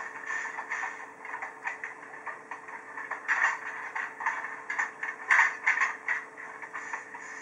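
Train running noise from Ōigawa Railway ride footage, the wheels clicking and clattering irregularly on the rails over a faint steady hum, played back thin through a miniature display's small speaker. The loudest clatter comes about three and a half and five and a half seconds in.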